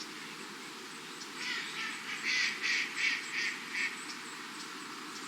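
A duck calling in a quick run of about seven short, high-pitched calls, over a steady background hiss.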